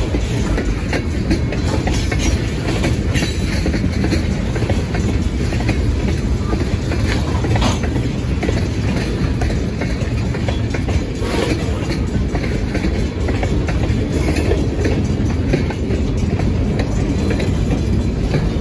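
Freight train of tank cars and boxcars rolling past at a grade crossing: a steady, loud, low rumble of steel wheels on rail, with a few sharp clicks from the wheels.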